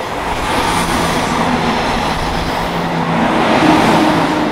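Diesel multiple-unit passenger train passing at speed over a level crossing, a rushing wheel-and-rail noise with a low engine hum underneath that builds to its loudest a little before the end.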